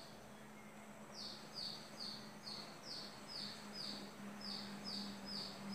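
Faint bird calling: a regular series of short, high chirps, each falling slightly, about two a second, starting about a second in.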